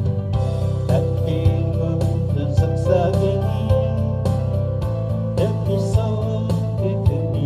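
Live music with a singing voice, plucked guitar and bass over a steady beat of about two hits a second.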